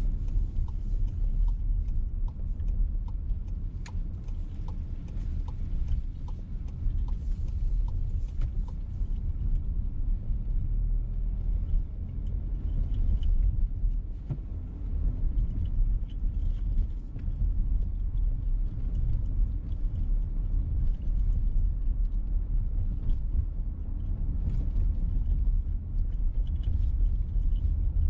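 Road and engine rumble inside a VW T-Roc petrol car while driving. For the first eight seconds or so there is a steady ticking, about one tick every 0.6 seconds, typical of the turn indicator.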